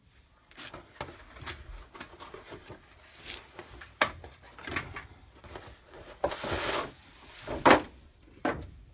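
Plastic parts and a replacement pad of a Honeywell furnace humidifier being handled: scattered clicks and rubbing, a longer scrape about six and a half seconds in, and sharp knocks, the loudest near the end.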